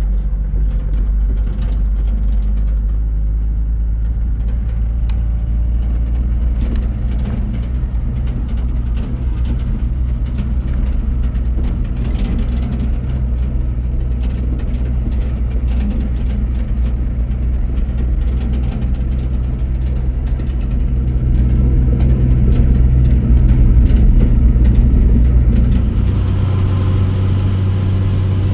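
A motor vehicle's engine running steadily while driving, with scattered light rattles. The engine gets louder about three quarters of the way through, and its note changes near the end, as at a gear change.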